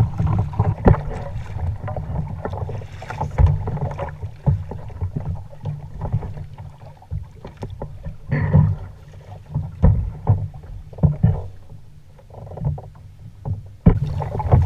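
Sounds of a fishing kayak out on the ocean: a low, uneven rumble of water and wind, broken by frequent short knocks against the boat. It is quieter for a while in the middle.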